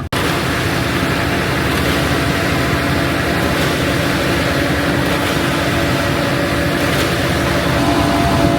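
Concrete mixer truck running: steady diesel engine and road noise with a constant hum, getting slightly louder and higher near the end.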